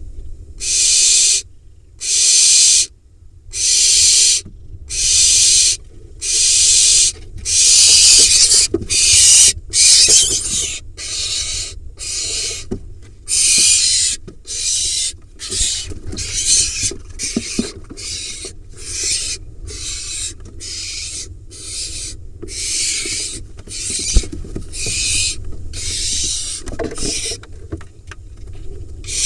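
Barn owl nestling begging calls: a long run of harsh, hissing screeches, each about a second long at first, then shorter and coming faster, roughly two a second, from about ten seconds in.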